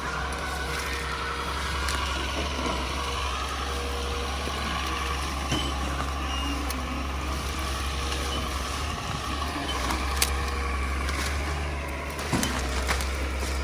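Engine of heavy earthmoving equipment running steadily, a continuous low rumble with a few faint clicks.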